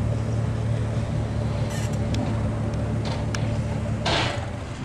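Nissan 300ZX's 3.0-litre V6 idling steadily with a low, even hum, with a brief rush of noise about four seconds in.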